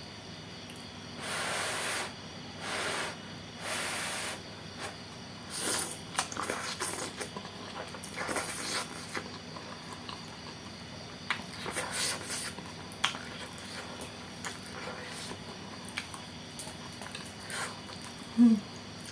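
Close-up eating sounds of spicy saucy noodles: three short airy slurps in the first few seconds, then chewing with many small crisp crunches and clicks from bean sprouts and wet mouth sounds. A brief low hum-like blip near the end.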